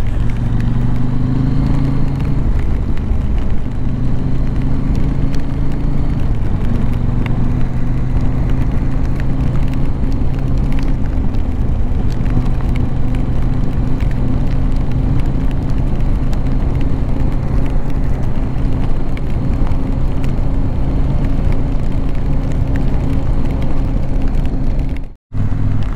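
KTM 790 Adventure R's parallel-twin engine running steadily at low speed as the bike is ridden through slippery, rutted mud, with a heavy low rumble underneath. The engine note shifts slightly a couple of times, and the sound cuts out for a moment near the end.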